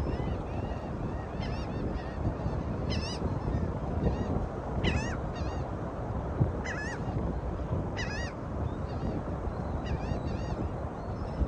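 Birds giving short, high squawking calls, singly or two or three in quick succession, every second or two over a steady rushing background.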